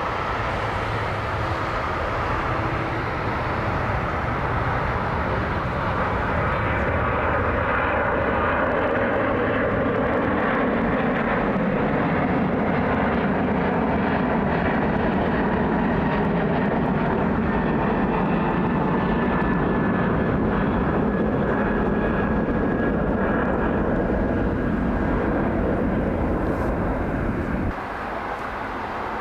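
Jet airliner's engines running steadily, with a faint high whine over the noise; the sound drops suddenly near the end.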